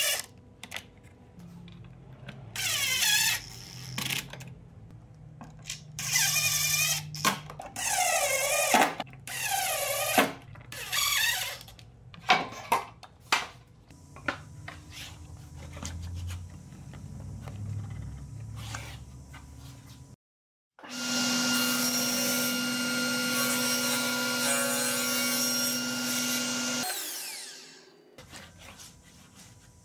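A power drill runs in short bursts, about six times in the first twelve seconds. After a pause, a power tool motor runs steadily for about six seconds and then winds down.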